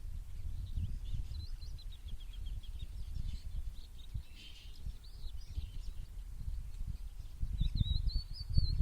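Small songbirds chirping and twittering: a quick run of repeated notes about a second in, scattered chirps, then a twittering phrase near the end. Beneath them runs a low, gusting rumble that swells near the end and is the loudest sound.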